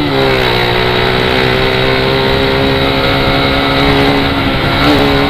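Motorcycle with an aftermarket Polimet exhaust running at steady revs while being ridden, a constant-pitched engine note.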